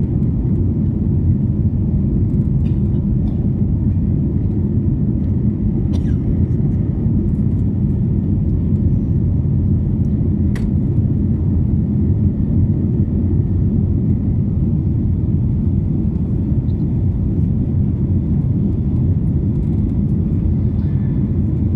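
Airbus A330 airliner heard from inside the passenger cabin in flight: a steady, even low rumble of engines and airflow, with a couple of faint clicks about 6 and 10 seconds in.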